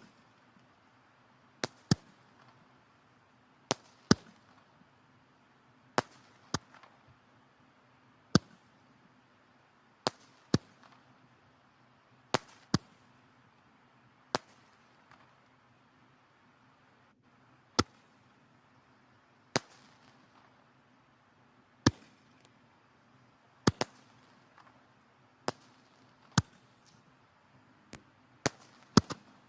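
Wood fire in a fireplace crackling: sharp, irregular pops from the burning logs every second or two over a faint steady hiss.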